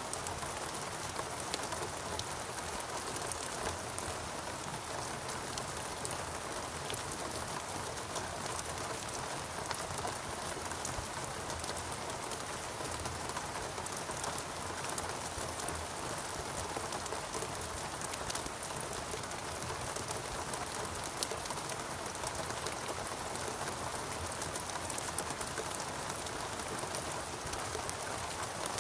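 Steady rain falling in a rainforest, a continuous even hiss dotted with the patter of individual drops.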